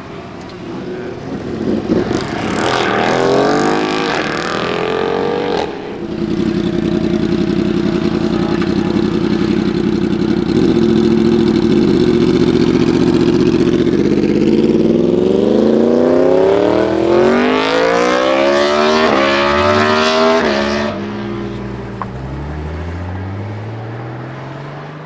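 A high-revving vehicle engine. It revs up twice in the first few seconds and holds steady at high revs for about eight seconds. It then accelerates hard through several quick upshifts, each a short rising sweep, and fades near the end.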